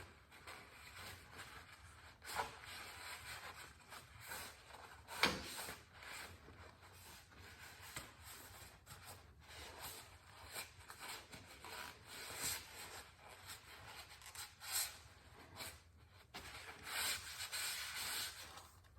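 Faint, irregular rubbing and scuffing strokes, with a sharper click about five seconds in.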